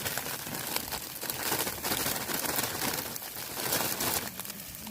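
Plastic bag of vegetable stir fry crinkling as the vegetables are tipped into a hot frying pan, with dense crackling and sizzling throughout.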